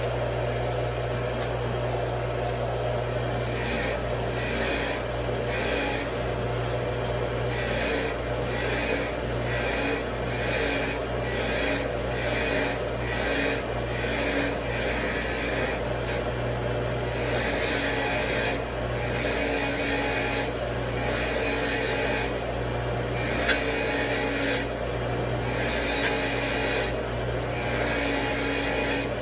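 Repeated rubbing strokes by hand, about two a second in runs with short pauses, like a part being scrubbed or filed, over a steady low hum.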